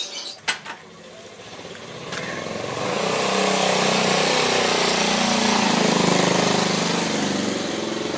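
A motor vehicle engine running, growing louder over about two seconds and then holding steady, after a couple of sharp clicks at the start.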